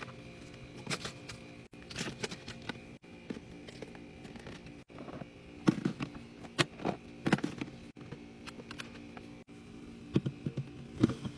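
Containers and food items being handled and set in place while a fridge is organized: irregular clicks, taps and knocks, several in quick clusters, over a faint steady hum.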